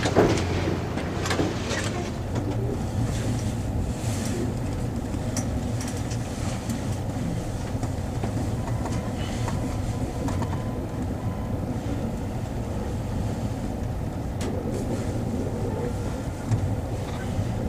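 Passenger train running along the track: a steady rumble of wheels on rail and wind noise, with a few sharp clicks in the first couple of seconds.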